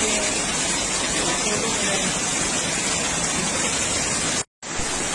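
Heavy rain and rushing floodwater making a steady, loud hiss. The sound cuts out to silence for a moment about four and a half seconds in, then comes back.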